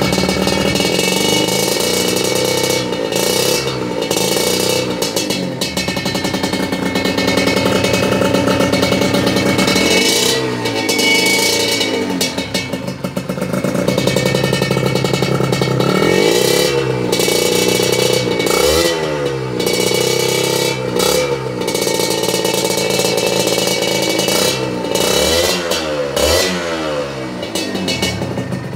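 Kawasaki Ninja 150's single-cylinder two-stroke engine running through an aftermarket racing exhaust, held at a fast idle and revved up and back down again and again in short throttle blips.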